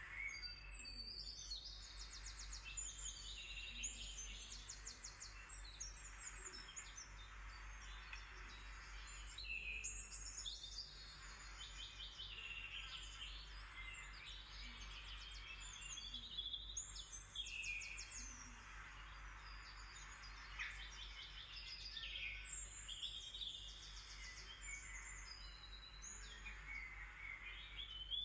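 Birds chirping and singing rapid trills, call after call, over a soft steady hiss and a low constant hum.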